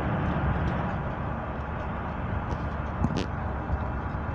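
Passenger train running along the track, heard from inside the carriage: a steady rumble, a little louder in the first second, with a sharp click about three seconds in.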